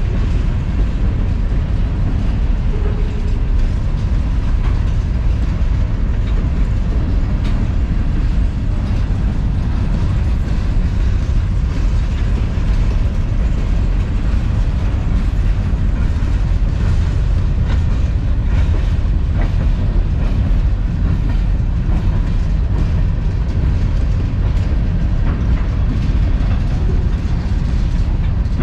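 Freight cars of a long manifest freight train rolling steadily past: a continuous low rumble with wheels clicking over the rail joints.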